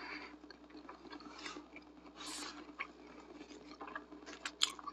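Close-miked chewing of a mouthful of soft pizza burrito: faint wet mouth sounds, with a few sharp lip-smack clicks about four and a half seconds in.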